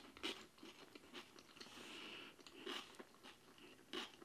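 Faint close-miked chewing of a mouthful of injera and stew: soft wet mouth clicks and smacks at irregular intervals, the loudest about four seconds in.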